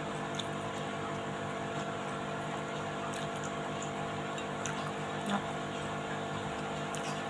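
Eating sounds: faint clicks of a spoon on a plate and chewing, over a steady background hum.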